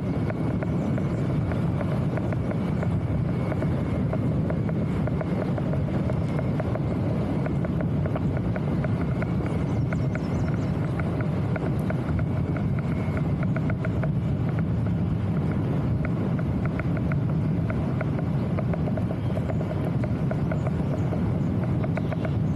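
Steady wind rumble buffeting the microphone over continuous rolling noise, with faint rapid ticking through the middle stretch.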